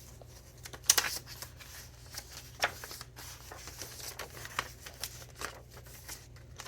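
Paper rustling and swishing as pages of a thick handmade junk journal are turned and handled, in scattered short strokes, the loudest about a second in.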